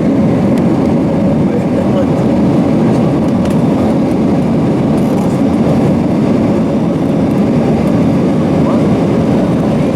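Steady engine and airflow noise inside the cabin of an Airbus A320 airliner, an even low rumble with no change in level.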